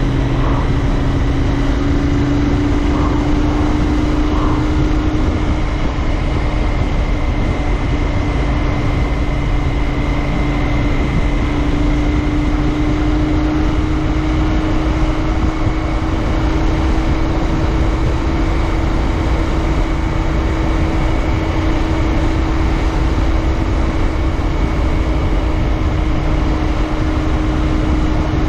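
Royal Enfield Interceptor 650's parallel-twin engine running at a steady cruise, its pitch rising slowly as the bike gathers speed, over a steady low rumble.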